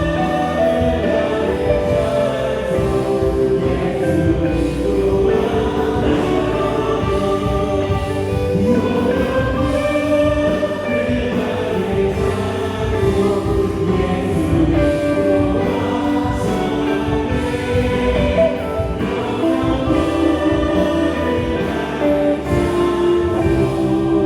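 A worship team singing a praise song together, held notes over a band of drums, keyboard, electric guitar and bass guitar.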